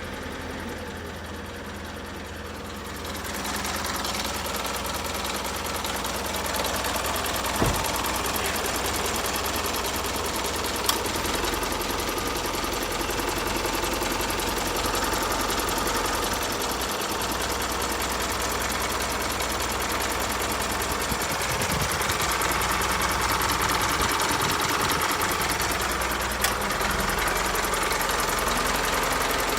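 Isuzu Elf truck's engine running steadily, getting louder about three seconds in, with a few short clicks over it.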